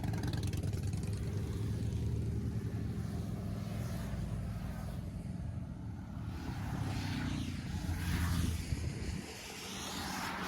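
Motorcycle engines running with a steady low rumble, with rising revs toward the end before the sound drops back about nine seconds in.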